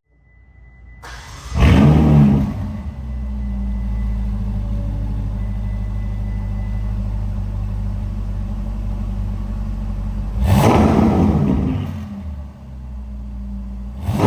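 Ferrari California T's 3.9-litre twin-turbo V8 flaring briefly with a rev about a second and a half in, then running at a steady idle. It is revved twice more: around ten seconds in and again at the end.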